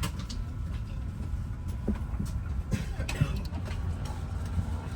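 Airliner cabin ambience on the ground: a steady low rumble with a few scattered clicks and knocks.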